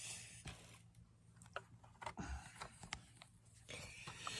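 Quiet room tone: a faint steady low hum with a few small, scattered clicks.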